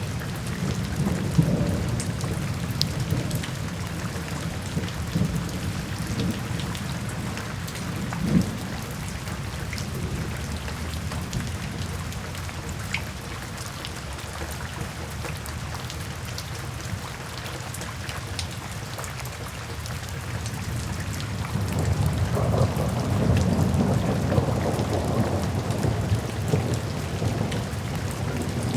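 Steady rain with thunder rumbling low under it; the rumble eases after the first few seconds and swells again about three-quarters of the way through.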